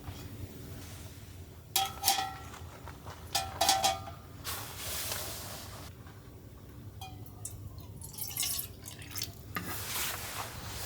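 Metal utensils clinking against metal cookware. There are sharp ringing clinks about two and three and a half seconds in, with lighter stirring and scraping between.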